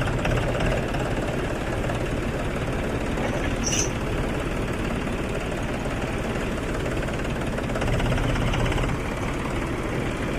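Tractor diesel engine running steadily, a little louder about eight seconds in, then easing back.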